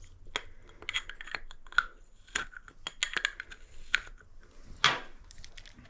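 Irregular sharp clicks and clacks of small hard plumbing parts being handled and fitted.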